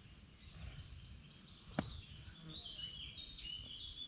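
Small birds singing, a run of short high chirping notes in the second half, over a low background rumble. One sharp click a little under two seconds in.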